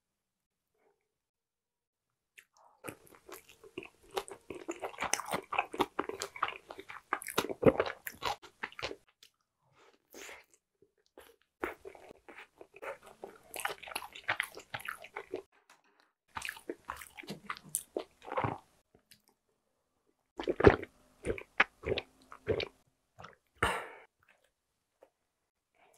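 Close-miked chewing of a shrimp dumpling: many small mouth clicks and smacks in four spells separated by short pauses, starting a couple of seconds in.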